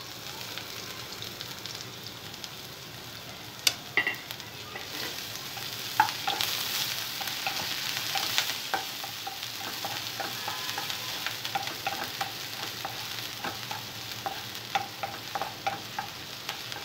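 Chopped onion, garlic and green chilli sizzling in hot oil in a nonstick pan while a spatula stirs them. The sizzle swells in the middle, and there are sharp clicks and many light taps and scrapes of the spatula against the pan.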